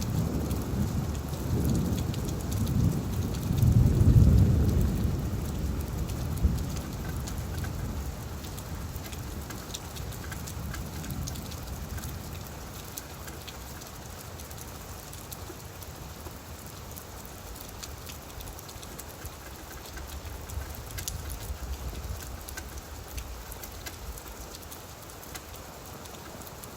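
Steady rain falling on leaves, with many separate drop ticks, and a low rumble of distant thunder in the first few seconds that swells about four seconds in and then fades away.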